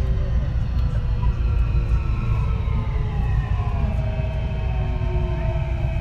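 Kintetsu 3220 series train's Hitachi IGBT VVVF inverter and traction motors whining in several tones that fall steadily in pitch, over a heavy running rumble, heard from inside the car; the falling pitch means the train is slowing down.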